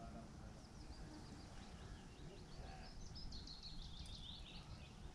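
Faint outdoor ambience: a steady low rumble, with a small bird singing a quick run of high chirps in the second half.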